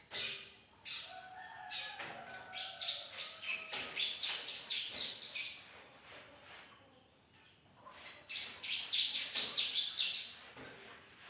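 Young bar-winged prinia (ciblek) singing: rapid high chirps in two runs, the first lasting about six seconds with some longer, lower notes beneath it, the second starting about eight seconds in and stopping near the end.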